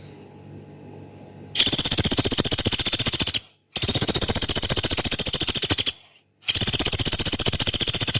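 Pelatuk beras woodpecker calling: three long, rough, rapid rattling trills of about two seconds each, high-pitched, with short pauses between them. A faint low hum comes before the first trill.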